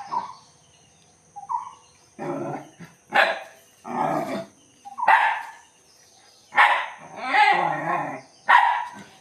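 A dog barking repeatedly, about eight barks at irregular intervals. Most are short and sharp, and one longer, drawn-out bark comes about three-quarters of the way through.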